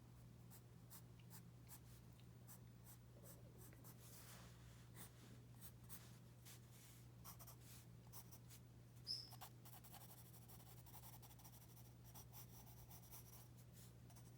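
Faint pencil strokes scratching on paper, short irregular strokes of sketching and shading, over a steady low hum. About nine seconds in comes one brief high chirp.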